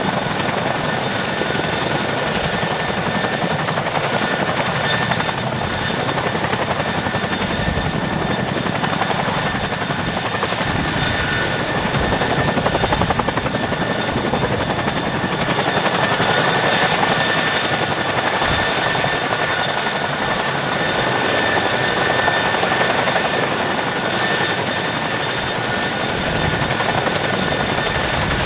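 CH-47 Chinook tandem-rotor helicopter running steadily: rotor noise with a fast low flutter, and several steady high whine tones from its twin turboshaft engines on top.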